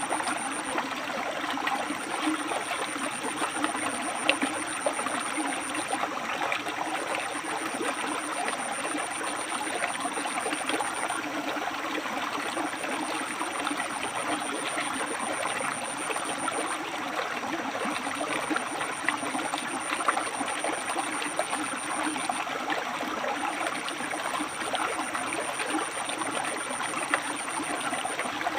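River water flowing and splashing between rocks, a steady rushing with small splashes.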